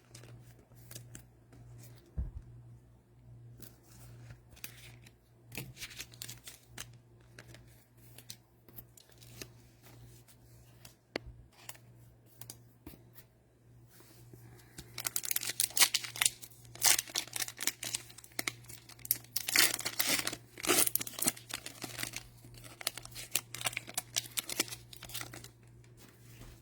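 Cellophane trading-card pack wrapper being torn open and crinkled, with light rustling and card handling at first and a loud stretch of crackly crinkling from about halfway to near the end. A faint steady hum sits underneath.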